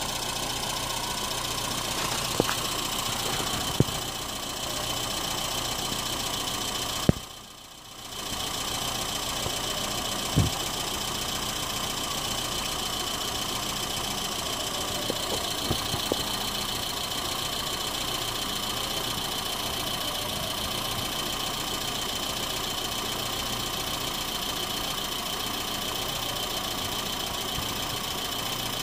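Citroën C3's engine idling steadily, with a few short knocks and a brief drop in level about seven seconds in.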